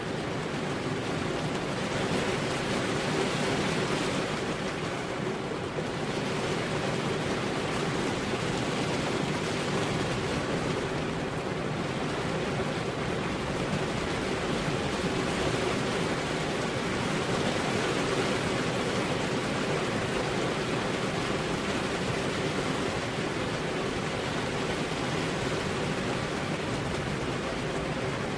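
Steady heavy rain, a dense even hiss that swells slightly now and then.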